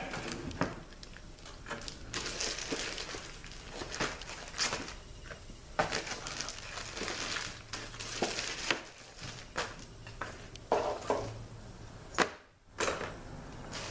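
Plastic packaging crinkling and rustling as transmission rebuild parts are handled, with scattered light clicks and knocks.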